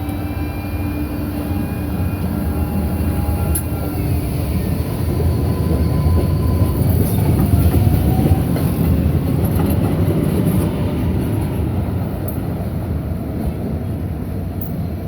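MBTA Green Line light-rail train of a Type 7 and a Type 8 car running on the track. Steady whining tones stop about four seconds in, and the wheel and track rumble then grows louder toward the middle before easing off.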